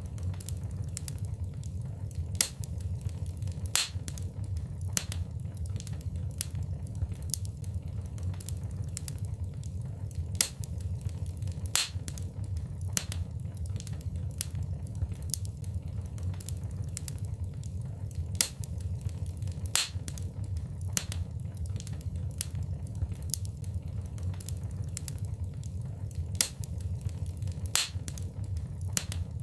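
Wood fire crackling in a fireplace: a steady low rumble of flames with irregular sharp pops and snaps, a few of them louder.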